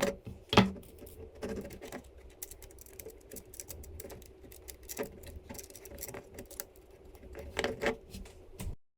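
Irregular light clicks and rattles of small hard parts being handled, with a sharper knock about half a second in and a cluster of louder clicks near the end. The sound cuts off abruptly just before the end.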